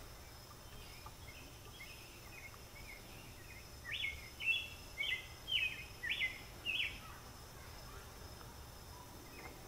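A bird chirping: a quick run of about six short, high chirps, each dropping in pitch, starting about four seconds in, over low steady background noise.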